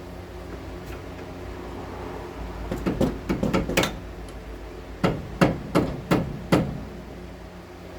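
Hammer blows: a quick run of strikes about three seconds in, then five separate, evenly spaced blows, struck while working a strut loose during a front suspension teardown.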